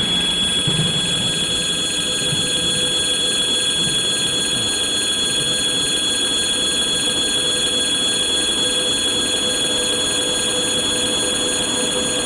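Freight train rolling steadily past at close range: a continuous rumble of wagons on the rails with a steady high-pitched ringing tone over it.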